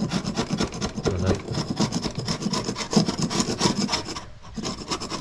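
Hand floor scraper pushed across the floor in quick repeated strokes, scraping off old black mastic adhesive. The strokes stop briefly near the end, then start again.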